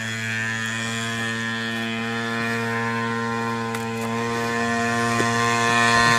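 Pocket bike's small engine running at a steady speed, an even, high buzz that holds its pitch and grows louder near the end.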